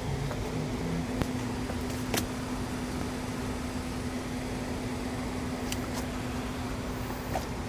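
Isuzu vehicle running, with a steady, even-pitched whine over a low rumble and a few faint clicks: the whining noise the owner reports when braking.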